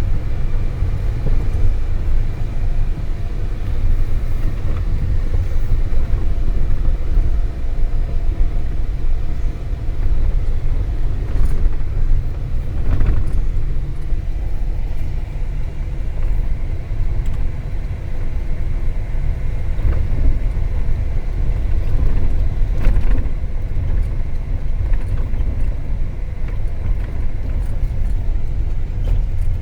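Isuzu refrigerated box truck running, heard from inside the cab as it rolls along a rough gravel drive: a loud, steady low rumble with a few sharp knocks and rattles from bumps.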